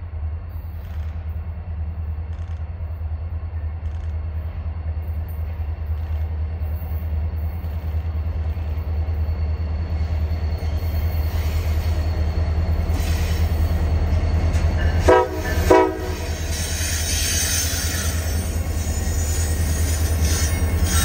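Freight train's diesel locomotives passing close with a low engine rumble that grows louder, and two short horn blasts about three quarters of the way through. Hopper cars then roll by with a rising hiss of wheels on the rails and a faint wheel squeal near the end.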